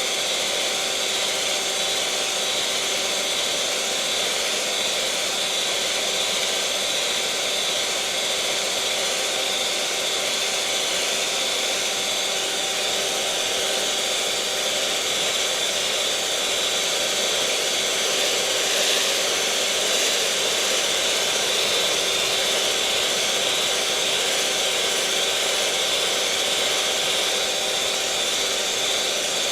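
Electric mixer motor running at one steady speed: a constant whine over a whirring hiss.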